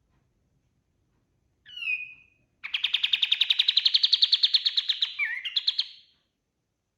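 Kapas tembak songbird singing: a short slurred note, then a fast, clear trill that rises slightly in pitch, ending in a few quick slurred notes.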